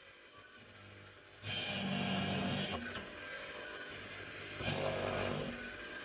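A power tool's motor running in two spells, starting about a second and a half in and again near the end, with a steady low hum under a noisy rush.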